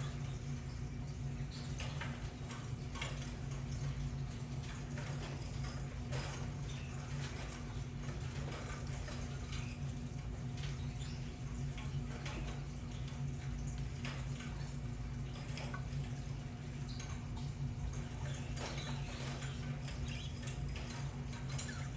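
Budgerigars chattering softly, with scattered short chirps and little clicks and scratches, over a steady low hum.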